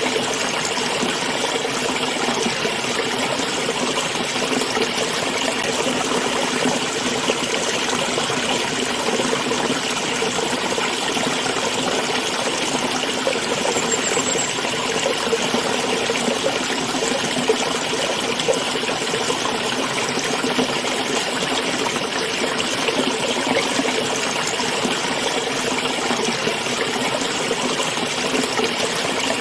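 Small stream running and trickling steadily, an even water noise with no breaks.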